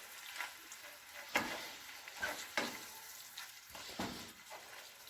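Spoon stirring browned ground beef and creamed corn in a pan: a few irregular scraping strokes over a faint sizzle.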